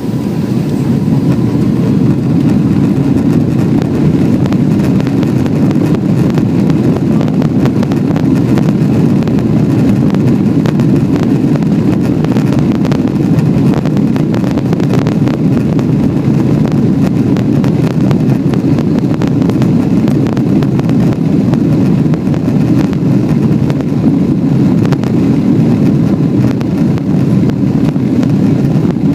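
Boeing 777 jet engines at takeoff, a loud, steady rumble that holds level throughout, with a faint thin whine above it.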